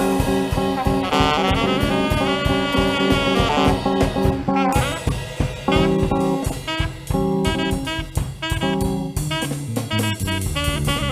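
Jazz band music with saxophone and brass over a drum kit playing a steady beat.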